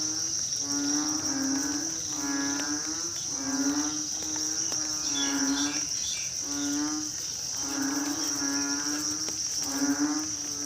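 A chorus of narrow-mouthed frogs (อึ่ง) calling after rain. Each call is a low, moo-like bellow lasting under a second, and the calls overlap at about one a second. A steady high drone of insects runs underneath.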